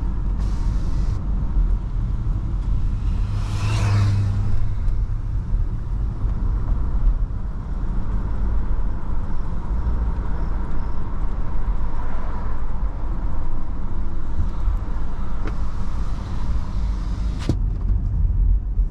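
MG Hector Plus SUV with a 1.5-litre turbo-petrol engine and CVT, driving steadily: a continuous low engine and road rumble. About four seconds in it briefly swells louder, and a single sharp click comes near the end.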